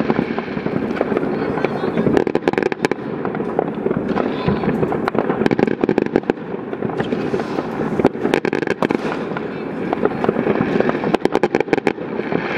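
Fireworks going off: sharp bangs and crackles throughout. They thicken into rapid strings of bangs twice in the second half.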